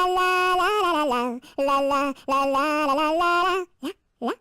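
A female voice singing a children's song melody in held, clean notes, the phrases stopping about three and a half seconds in, followed by three short rising yelps.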